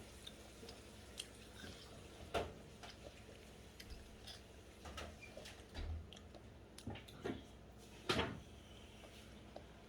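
Faint scattered clicks and taps from eating and handling things at a table, with one louder knock about eight seconds in.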